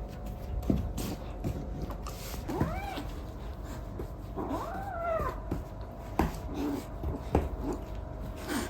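A kitten meowing twice, each meow rising then falling in pitch, the second one longer. Short light knocks come and go around it.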